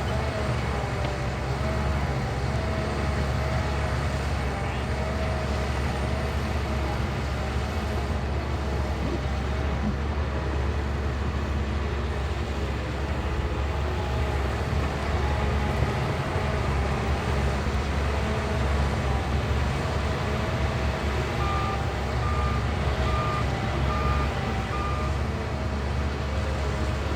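Shantui bulldozer's diesel engine running steadily under load, with a wavering whine over it. Near the end a reversing alarm beeps about six times.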